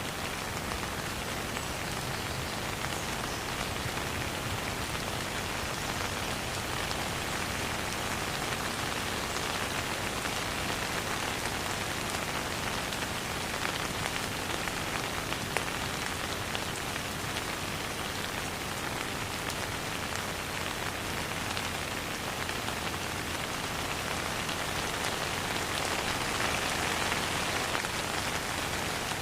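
Steady rain falling without thunder, a constant even hiss of drops on a surface with fine scattered patter.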